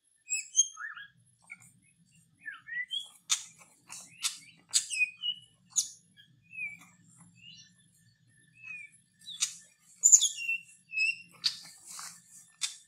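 Songbird calls: short whistled chirps that slide up and down in pitch, coming irregularly, with sharp clicking notes mixed in, several bunched together near the end.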